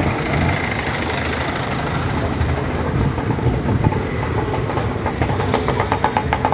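Local passenger train running on the rails, heard from inside the carriage: a steady loud rumble, with rapid rattling and clicking in the last couple of seconds.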